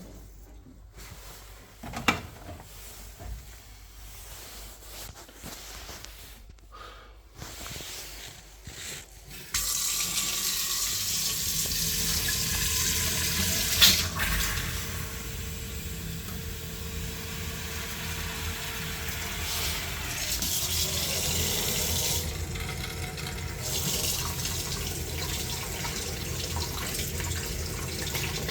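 Water running steadily from an opened tap, starting suddenly about ten seconds in, with one sharp knock a few seconds later. Before it there are only a few faint clicks.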